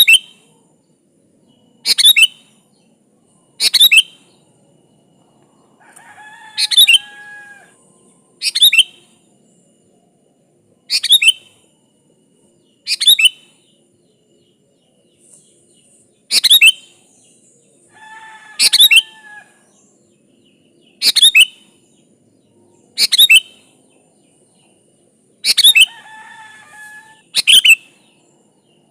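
Sooty-headed bulbul (kutilang) calling loudly on a lure recording: short, sharp, falling notes repeated about every two seconds. Three times a fainter, lower two-note call sounds beneath them.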